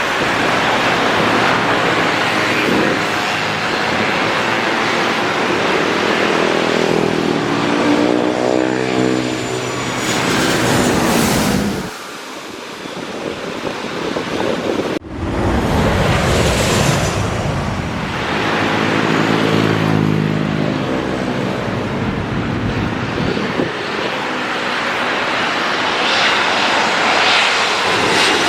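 Airliners flying low overhead on final approach, their engine noise loud and swelling then fading as each passes. A pass peaks about nine seconds in and cuts off abruptly around twelve seconds. A second pass peaks around twenty seconds in.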